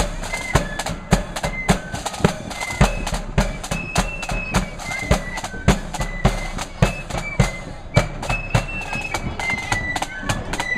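Flute band playing a march: a high flute melody over snare and bass drums beating steadily at about two strokes a second.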